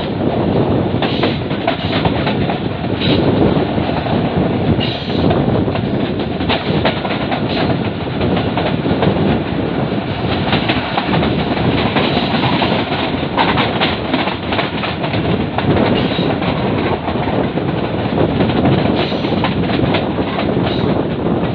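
Passenger train's coaches running along the track, heard from an open window of the moving train: a steady rumble of wheels on rails with irregular clicks and clacks over the rail joints.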